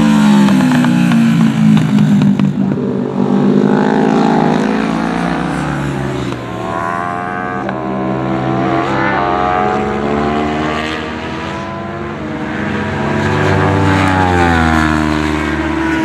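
A pack of 660cc-class racing sportbikes (Aprilia RS 660, Triumph Daytona 660, Yamaha YZF-R7, Kawasaki Ninja 650) at full throttle. Several engine notes climb in pitch and drop back again and again as the bikes shift up through the gears and brake for corners.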